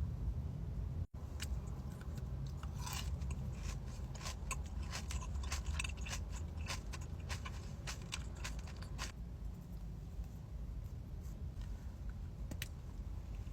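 Close-miked biting and chewing of a Dubai chocolate bar, its crispy kataifi pastry and pistachio filling crunching in a dense run of crackles for several seconds, then thinning to sparser chewing. A brief cut in the audio comes about a second in.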